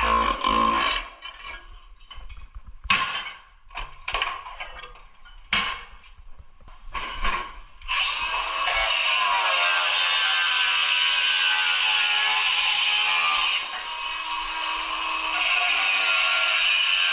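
Tools scraping and knocking in short separate strokes, then about halfway an electric power tool starts, rises to speed and runs steadily, easing off for a moment near the end before picking up again.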